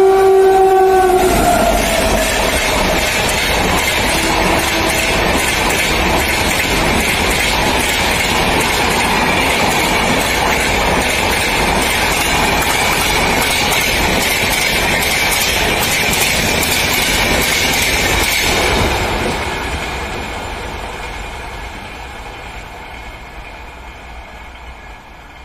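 An electric locomotive-hauled express train passes at speed. The locomotive's horn sounds steadily and drops in pitch about a second in as it goes by, then the rushing clatter of the coaches rolling past carries on and fades away over the last several seconds.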